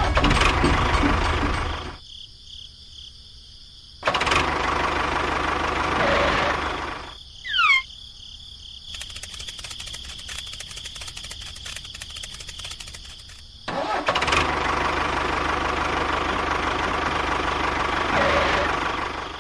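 A motor or engine running in loud stretches with quieter gaps between them, a brief falling whistle about eight seconds in, and rapid fine ticking in the middle.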